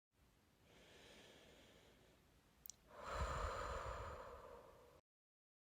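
A soft airy hiss, then a louder breathy rush of air with a low rumble about three seconds in, just after a brief click; it cuts off abruptly.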